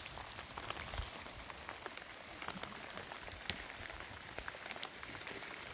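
Steady rain falling, with many scattered sharp taps of drops hitting a surface.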